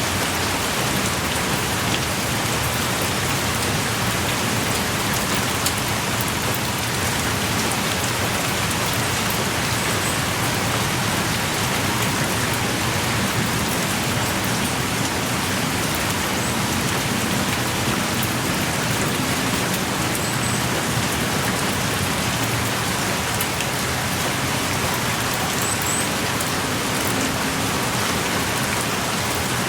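Heavy, steady rain pouring down and pattering on surfaces, with scattered individual drops ticking.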